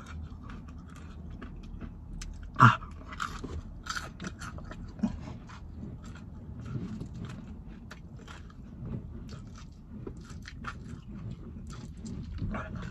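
A person biting and chewing a sauced chicken wing: a long run of small clicks with one louder sound about two and a half seconds in.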